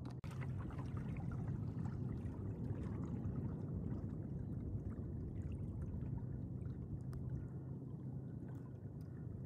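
Steady low swish and lapping of water moving along a fishing kayak's hull while it glides, with a few faint light ticks.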